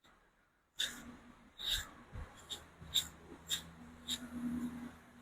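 Sharp clicks and taps of objects being handled, about six of them at irregular intervals, over a faint steady hum.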